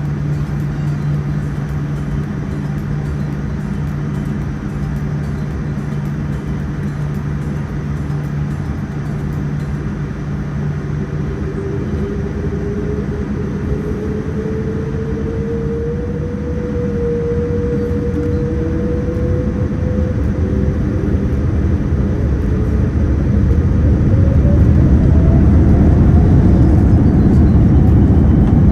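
Cabin noise of a Boeing 787-9 Dreamliner on its takeoff run: the Rolls-Royce Trent 1000 engines spool up with a rising whine about twelve seconds in, and the rumble grows steadily louder as the plane accelerates, with a second rising tone near the end.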